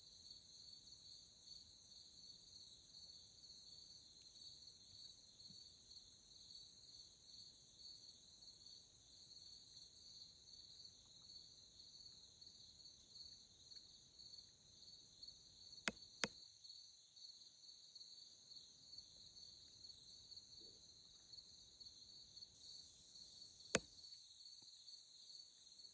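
Faint chorus of crickets, a steady high pulsing trill. Two sharp clicks a fraction of a second apart come about two-thirds of the way through, and a single click near the end.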